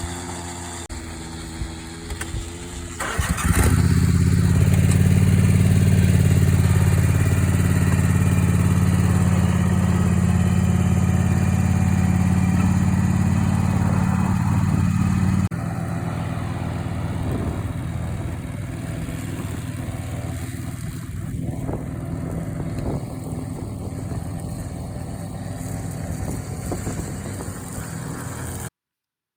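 Lawn mower engine running steadily at speed. It gets louder about three and a half seconds in, drops suddenly in level about halfway through, and cuts off abruptly just before the end.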